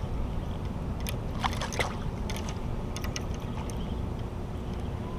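Water sloshing around a kayak with a steady low rumble, and scattered light clicks and ticks, a short cluster of them about a second and a half in.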